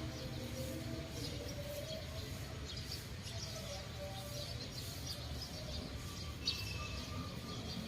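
Small birds chirping: short, scattered high calls, with a few brief whistled notes, over a steady low rumble.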